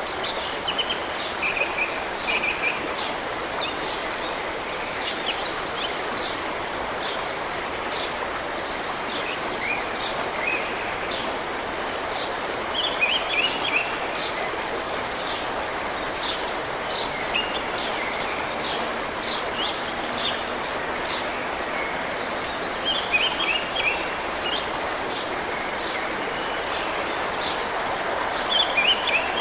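Birds chirping and trilling in many short, high calls over a steady rushing background noise.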